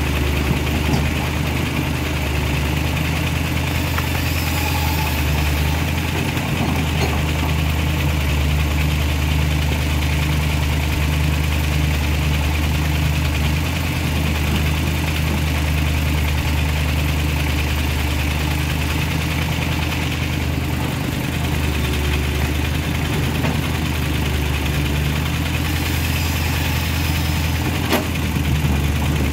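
A vehicle engine idling steadily, a low even drone.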